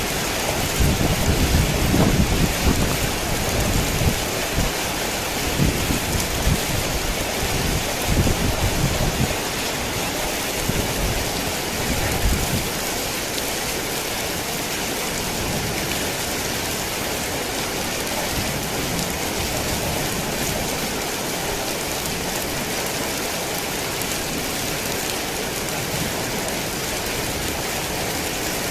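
Heavy rain falling steadily as an even hiss, with low rumbles of distant thunder during roughly the first twelve seconds.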